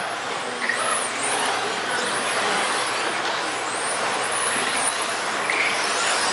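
Several 1:10 electric touring cars racing, their 17.5-turn brushless motors whining in high glides that rise and fall as they accelerate and brake, over a steady rushing noise from the pack.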